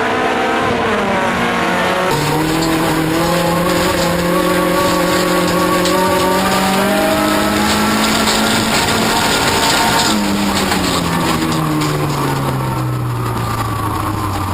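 Toyota Corolla offroad race car's engine under hard use: the revs drop with a gear change about two seconds in, climb slowly under load, then fall steadily from about ten seconds in as the car slows.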